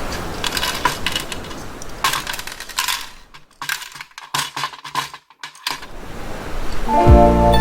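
Irregular sharp clicks and small metallic clinks of parts being handled while a cordless vacuum cleaner is taken apart, thinning out in the middle. Background music comes in near the end.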